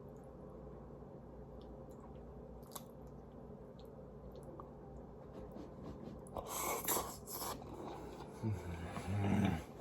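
A person chewing and biting food with their mouth. It is faint for the first few seconds, then louder bursts of chewing start about six and a half seconds in.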